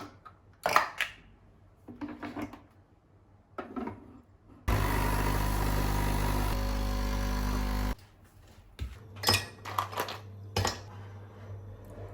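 Short knocks and clatter of objects being handled, broken midway by about three seconds of loud, steady machine noise with a low hum that starts and cuts off suddenly.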